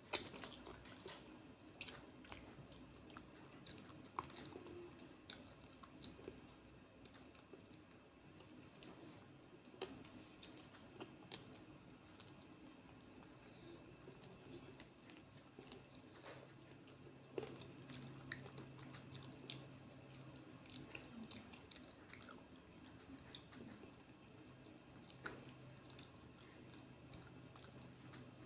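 A person chewing a mouthful of fried fish and rice, faint, with many small sharp clicks from the mouth and from fingers picking at the food.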